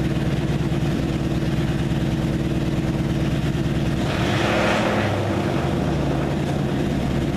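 Ford Mustang GT 4.6-litre V8 running on straight pipes with no mufflers, loud, with a brief blip of throttle about four seconds in. It is running with a miss, which the owner suspects comes from a crossed plug wire.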